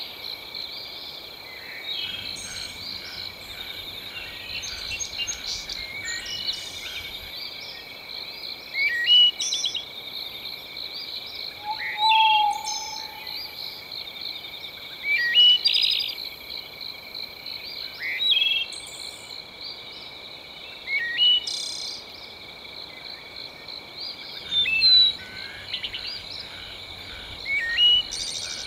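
Birds chirping in short, sharp calls every two to four seconds over a steady, high-pitched chorus of frogs and insects in a natural soundscape.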